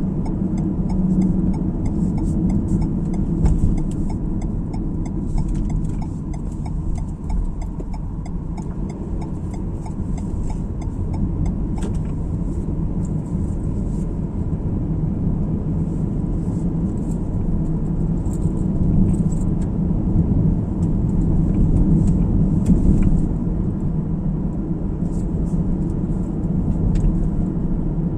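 Steady road and engine rumble heard inside a moving car's cabin, with faint scattered ticks over it.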